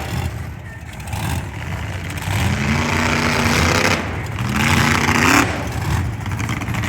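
Monster truck engine revving hard, its pitch climbing in two surges, one a couple of seconds in and one near five seconds.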